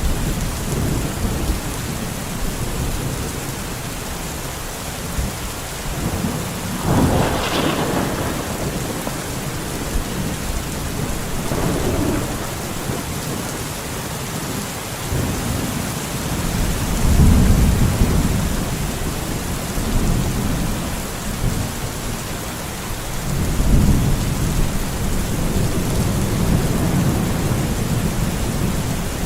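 Steady rain with several low rolls of thunder; one, about a quarter of the way in, has a sharper crack, and the loudest rumble comes a little past halfway.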